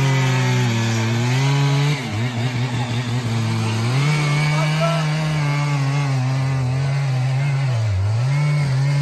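Chainsaw running under load, its pitch sagging and wavering as the chain bites into the wood about two seconds in, then recovering, with another brief dip near the end.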